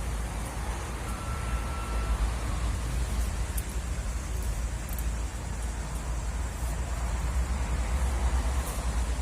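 Strong gusty wind buffeting the microphone: a heavy, fluctuating rumble under a steady rushing hiss.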